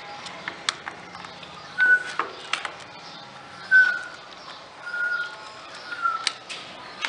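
Birds calling: a few short whistled notes spaced about a second apart, with sharp high chirps between them.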